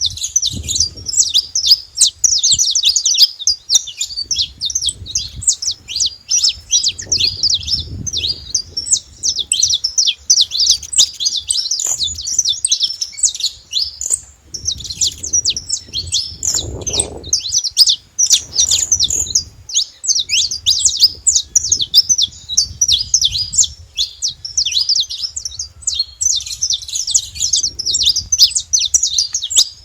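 Wild saffron finches singing: a rapid, nearly unbroken run of high chirps and trills, with a short break about halfway through.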